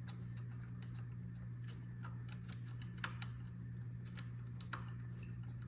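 Light, scattered clicks and taps of a small Allen key turning an M3 screw and knocking against the printer's metal and plastic parts, over a steady low hum.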